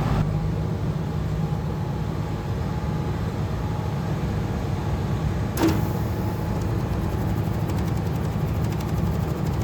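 Cummins L9 diesel engine of a heavy tandem truck running steadily, with a single sharp click about five and a half seconds in.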